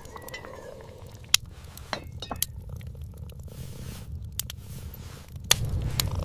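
A low steady rumble with several sharp, light clicks and clinks scattered through it, about six in all.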